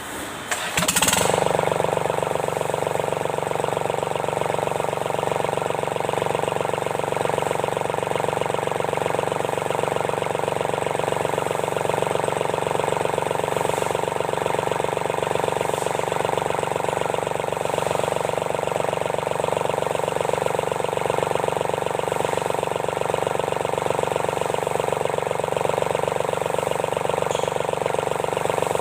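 Sunshine L1-255 tractor's D1462-TV diesel engine starting about a second in, then running steadily, after its valve seats and piston rings were replaced to cure a noisy engine.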